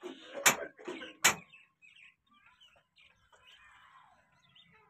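Two sharp knocks, a little under a second apart, among faint voices and handling sounds.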